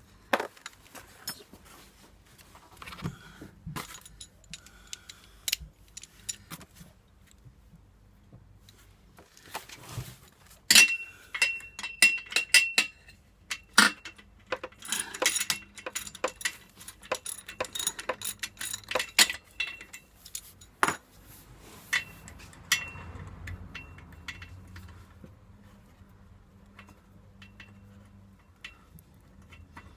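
Metal hand tools and exhaust hardware clinking and clicking in irregular bursts while the exhaust system is being unbolted. The densest run of strikes and rapid clicks comes from about ten to twenty seconds in.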